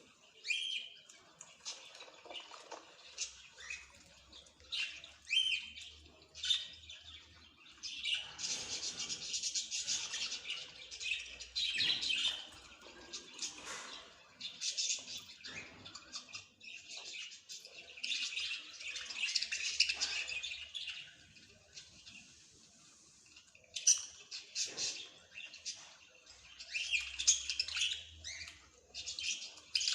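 Small songbirds chirping and twittering, in lively bursts of rapid high notes with sparser chirps in between.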